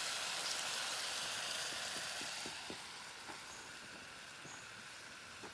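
Minced meat and onion sizzling in a pan on a camp gas stove, stirred with a wooden spoon. About two and a half seconds in, the sizzle fades to a quieter background with a few faint ticks.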